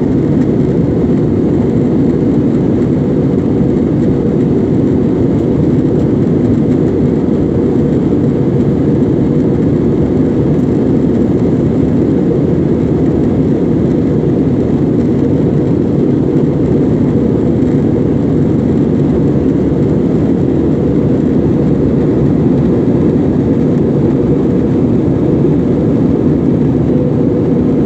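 Steady, even drone of an Airbus airliner's jet engines.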